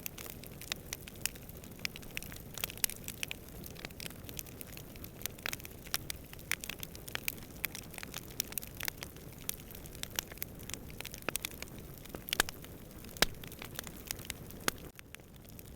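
Campfire crackling: many irregular sharp pops and snaps, several a second, over a steady low rush of distant wind.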